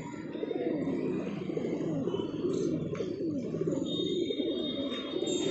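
A flock of domestic pigeons cooing together in a dense, overlapping chorus, with a thin high note near the end.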